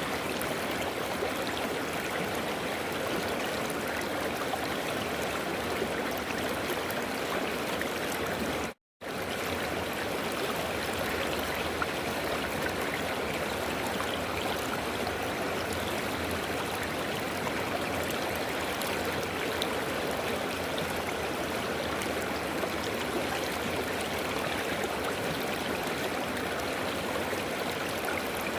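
River water flowing and rushing steadily, a continuous even wash of sound that cuts out for a split second about nine seconds in.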